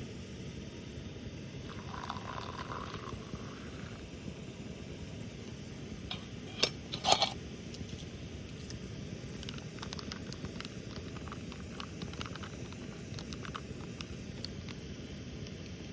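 Camp cookware clattering: a couple of sharp metal knocks about seven seconds in, then light ticks and clinks, over a steady low hiss.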